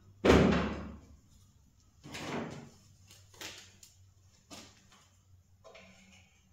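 Stainless steel sheet-metal parts of a chimney cap knocked and set down against each other: one loud clank just after the start, a second about two seconds in, then several lighter knocks.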